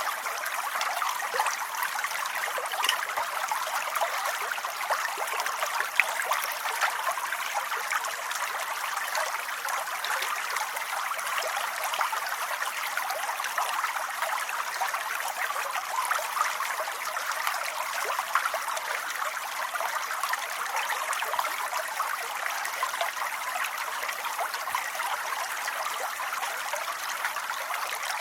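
Steady rain falling: an even hiss dense with small drop clicks.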